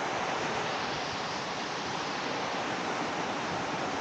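Steady rush of water spilling over a low, wide tiered waterfall, an even hiss that holds constant with no breaks.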